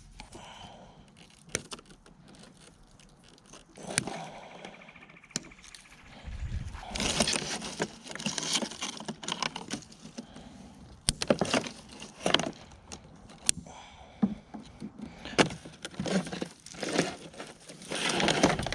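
Irregular metallic clinks, knocks and scraping from hand tools and loose parts as old fittings are worked loose and pulled off.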